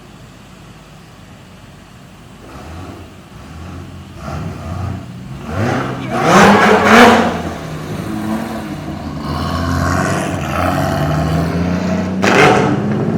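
Car engine revving. It picks up about two seconds in, gives two sharp, loud revs around the middle, holds at a higher speed for a few seconds, and revs hard again near the end.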